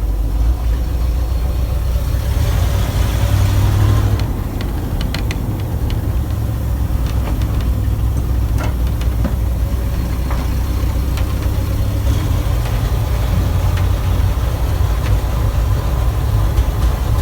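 Old gasoline water truck's engine, carburetor freshly rebuilt, running steadily, with a few short rattles and clicks in the middle.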